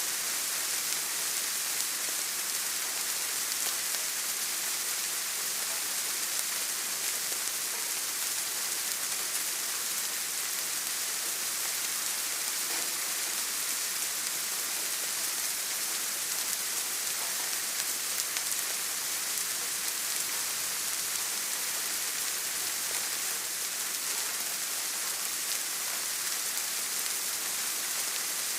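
Steady rain: an even, bright hiss of many drops that holds unchanged throughout, with no thunder or other events.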